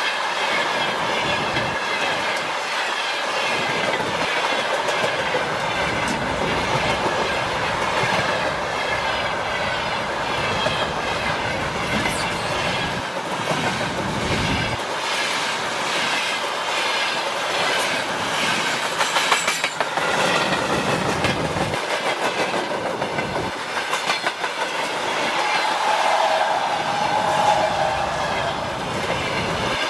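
A Russian freight train's wagons rolling past, the wheels clacking in a steady rhythm over the rail joints.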